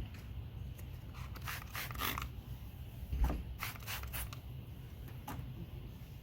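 Wet sandpaper (1000 grit, soapy water) scrubbing a plastic headlight lens, a few short scratchy strokes in two clusters over a low steady hum.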